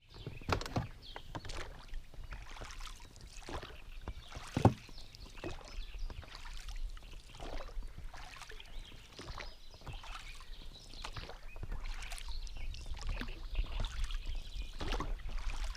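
Water splashing and lapping around a small boat, with irregular knocks and splashes and one sharp knock about four and a half seconds in.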